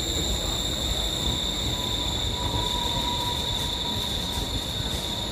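MTR East Rail Line electric train running through the station without stopping: steady rumble of wheels on track with a steady high whine over it, and a faint squeal about two to three seconds in.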